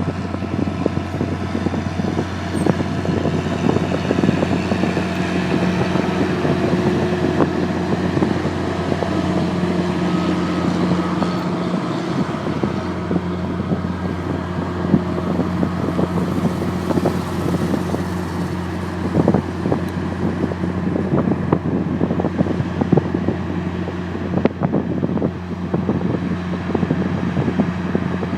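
Boeing 737 jet engines running steadily with a continuous roar and low hum, over frequent small knocks and rattles.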